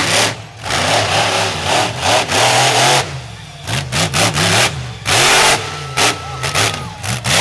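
Monster truck engine revving hard in repeated bursts, its pitch rising and falling between loud full-throttle blasts.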